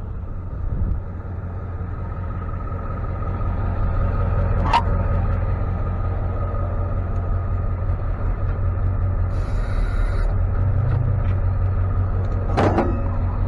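Tow truck driving, with a steady low engine and road rumble that grows louder about four seconds in. Two sharp knocks are heard, one about five seconds in and one near the end, and there is a short hiss in between.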